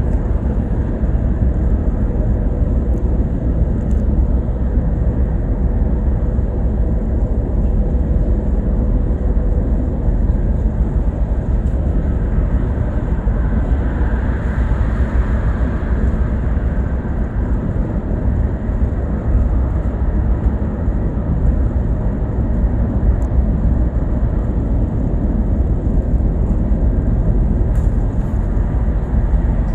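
Bus ride noise: a steady low engine and road rumble, with a brief swell of higher-pitched noise about halfway through.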